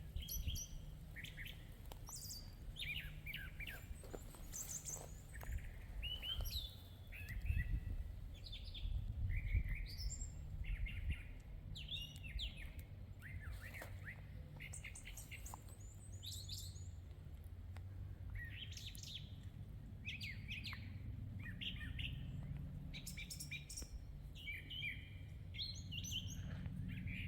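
Several small songbirds chirping and calling, short overlapping chirps and whistles throughout, over a low steady background rumble.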